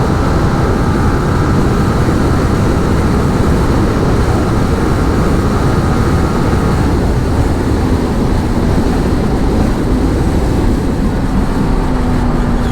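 Motorcycle riding at speed on a highway: steady engine and road noise mixed with heavy wind rush on the rider's mic.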